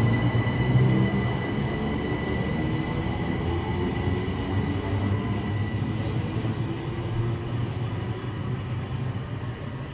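Southeastern electric multiple-unit train pulling away from the platform: a low rumble of wheels on rails with a steady high traction-motor whine. The whine dies away within the first few seconds, and the rumble fades steadily as the train draws off into the distance.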